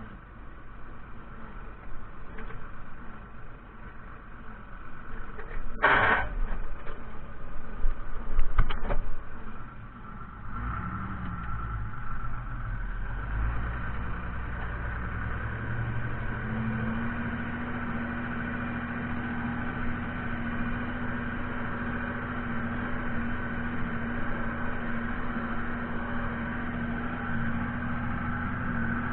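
Fiatagri 130-90 tractor's diesel engine running, with a short loud clatter about six seconds in and a few sharp knocks a couple of seconds later. From about halfway on, the engine holds a steady, even note.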